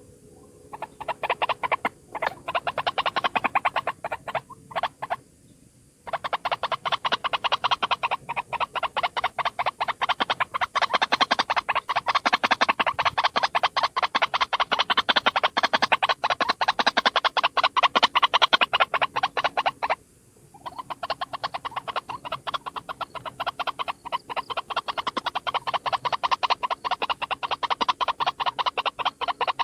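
A single white-breasted waterhen calling, played as a trapping lure: long bouts of rapid, harsh croaking notes repeated many times a second. There are short breaks near the start, around five seconds in and about two-thirds of the way through.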